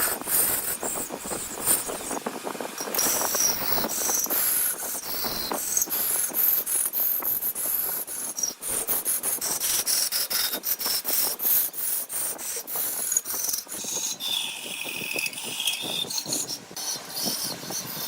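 Turning tool cutting wood on a spinning lathe: fast scraping and ticking, with a high squeal about three-quarters of the way through.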